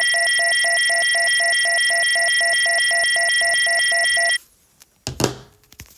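A loud, steady, high-pitched electronic tone with a pulsing part underneath at about five pulses a second. It lasts about four seconds and cuts off sharply.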